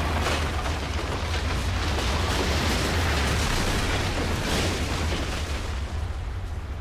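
Earthquake rumble: a deep, continuous rumble with crackling and crashing noise over it, dying away near the end.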